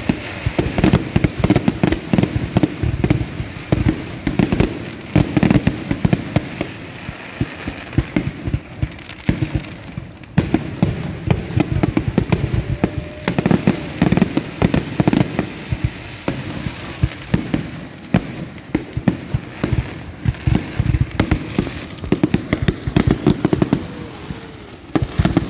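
Aerial fireworks going off in rapid succession: a dense barrage of booms and crackling bangs, several a second, with a short lull about ten seconds in.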